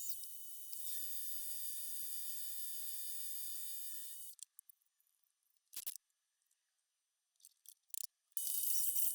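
Steady high electric whine of a machine tool's motor running while a stainless steel block is squared up. The whine cuts out about four seconds in, leaving a few short clicks, and starts again near the end.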